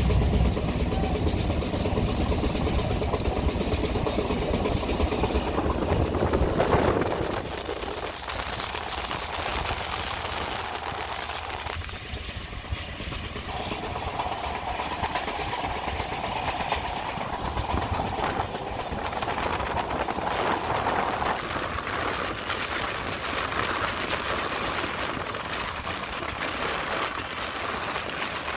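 Passenger train running on the rails, a steady rolling noise heard from inside the carriage. It is louder for the first several seconds, and a steady hum joins in for a stretch midway.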